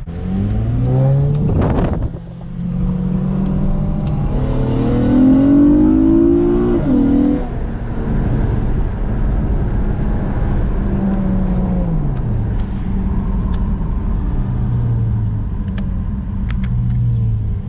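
Acura TL SH-AWD's J37 V6, fitted with precat deletes and a J-pipe, revving under acceleration with a raspy exhaust note. The revs climb, drop sharply about two seconds in, then climb to a peak around seven seconds before falling back and rising and easing again.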